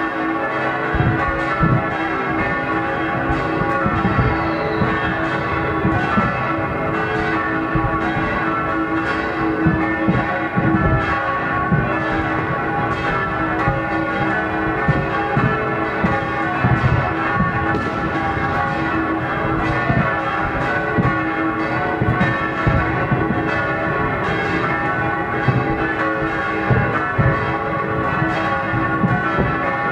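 Church bells pealing, many overlapping tones ringing on steadily, with New Year's fireworks banging throughout. A falling whistle about four seconds in is typical of a rocket.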